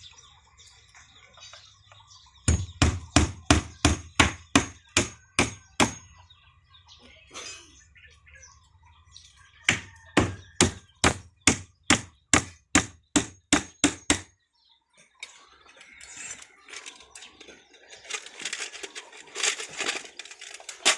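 Hammer blows, struck in two steady runs of about two and a half blows a second, each with a short metallic ring. A softer, busy scraping noise without clear strikes fills the last few seconds.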